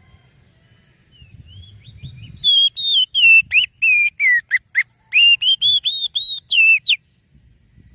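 Oriental magpie-robin (kacer) singing: a run of about a dozen loud, clear whistled notes that glide up and down, starting softly about a second and a half in and stopping about a second before the end. A faint low rumble lies underneath.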